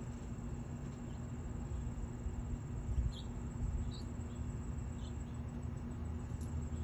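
A few short, high bird chirps between about three and five seconds in, over a steady low rumble.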